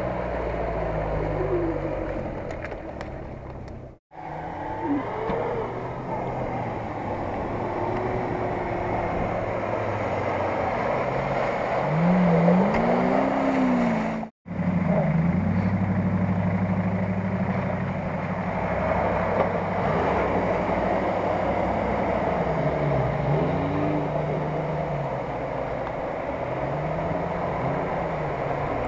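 Off-road SUV engines running and revving under load as the 4x4s push through mud and shallow water, the pitch rising and falling over a steady rushing noise. The sound drops out briefly twice.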